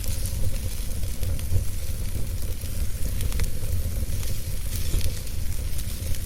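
Wood fire burning, with a steady low rumble of flame under many small, irregular crackles and pops from the burning wood.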